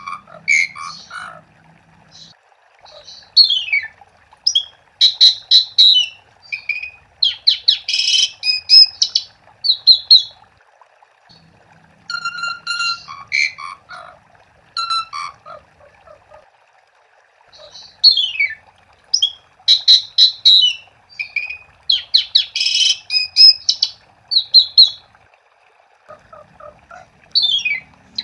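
Asian pied starling (jalak suren) singing lively: fast runs of whistles, harsh squawky chatter and rattling notes, in three bouts with short pauses between.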